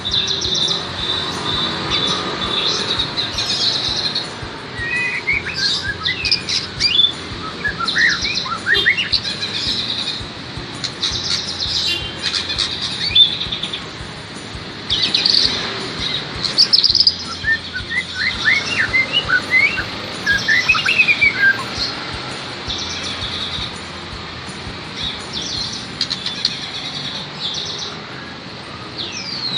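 Songbirds singing and chirping: rapid high chirps with short, quick whistled phrases that sweep up and down, coming in bursts again and again.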